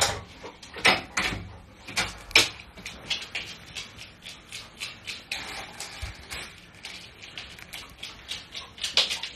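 A dog pawing at a door handle: a few sharp clicks and knocks in the first seconds as the latch gives and the door swings open, then fainter scattered taps and ticks.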